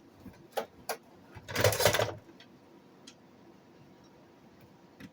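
Handling noise from an old answering machine: two sharp clicks, then a louder rustling scrape lasting about a second, and a few faint ticks.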